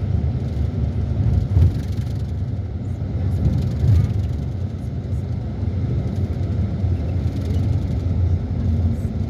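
Steady low rumble, with a couple of louder bumps about one and a half and four seconds in.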